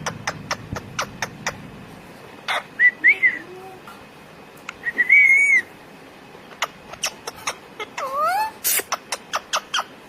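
Parrot whistling: two short warbling whistles a few seconds apart, then a swooping whistle near the end, among a run of sharp clicks.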